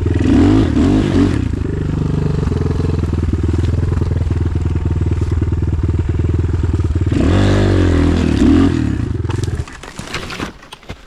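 Enduro motorcycle engine held at high revs as the rear wheel spins without grip on the winter climb, surging twice. The engine stops abruptly near the end and a few light knocks follow.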